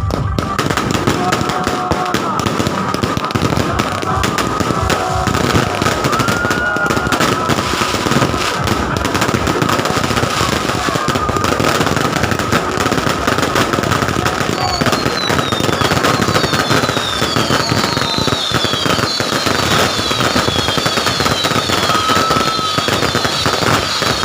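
Firecrackers and fireworks going off in a dense, continuous crackle of rapid pops. A steady high-pitched tone runs under it, and in the second half a string of short falling whistles is heard.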